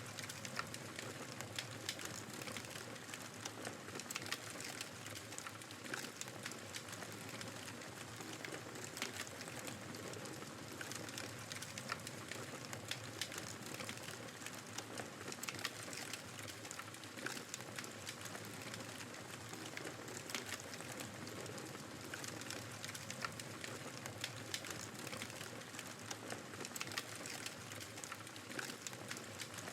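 Wood fire crackling, with frequent small sharp pops scattered irregularly over a steady rushing background of snowstorm wind.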